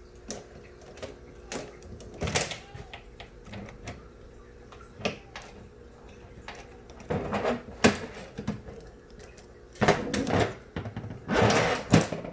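Handling noises: irregular clicks and knocks, with several louder rustling, clattering bursts in the second half, over a faint steady hum.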